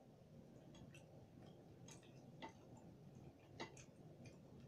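Faint, irregular crunching clicks of crispy pork belly being chewed and handled, with two slightly louder crunches about two and a half and three and a half seconds in.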